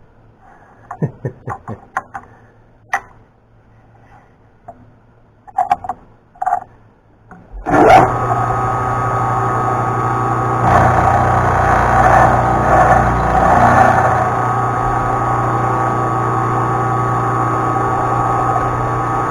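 A few light clicks and knocks of handling, then about eight seconds in a milling machine's motor starts suddenly and runs steadily. It grows louder and rougher for a few seconds in the middle as the cutter bites into the stock, taking a bigger chunk than intended because the part was not seated down.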